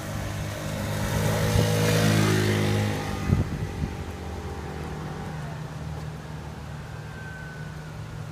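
A motor vehicle passing by: its engine grows louder to a peak about two seconds in and fades away after about three seconds, leaving a steady low hum.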